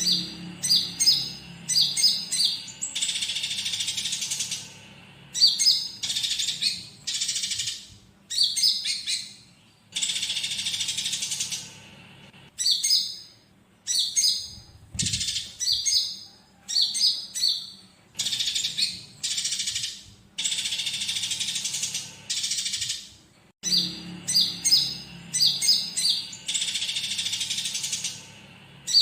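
Konin songbird singing: clusters of sharp, high chirps alternate with long buzzy, rattling trills of a second or two, repeating over and over with short pauses between phrases.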